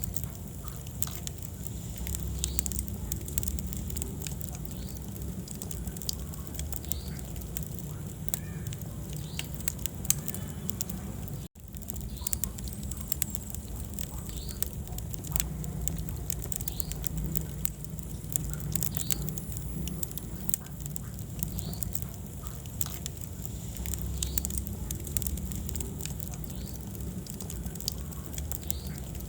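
Wood fire crackling in a fireplace: frequent sharp pops and snaps over a low steady rumble of burning. The sound cuts out for an instant about eleven seconds in.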